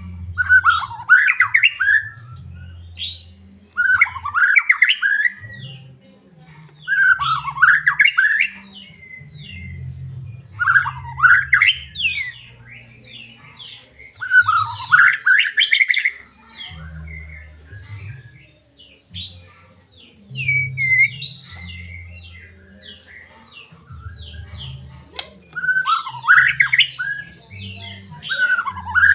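White-rumped shama singing: loud, quick sweeping phrases repeated every three seconds or so, with a stretch of softer, scattered twittering in the middle.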